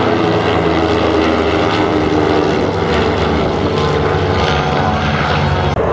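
Propeller aircraft's piston engine running loud and steady overhead, a continuous pitched drone.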